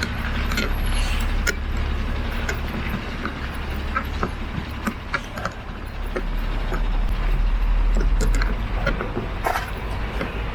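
City street traffic: a motor vehicle's engine rumbling low, growing louder from about halfway through, with scattered short clicks over it.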